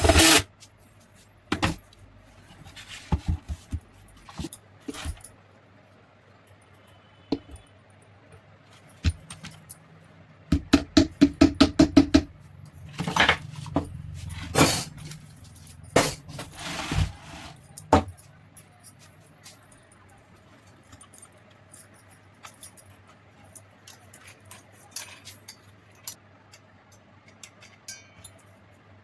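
Metal tools and mixer grinder parts clinking and tapping as they are handled, with a quick run of rapid taps about a third of the way through and a few louder knocks after it. A faint steady low hum runs underneath.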